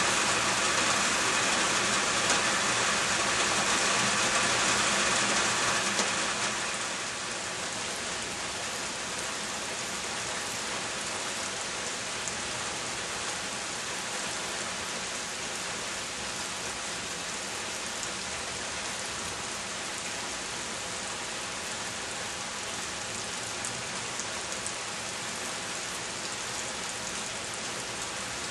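Steady rain falling, an even hiss of drops. It is heavier at first and eases to a lower, steady level about six seconds in.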